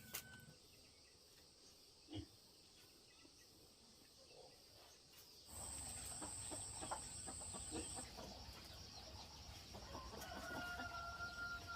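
Chickens clucking faintly, with a drawn-out call near the end.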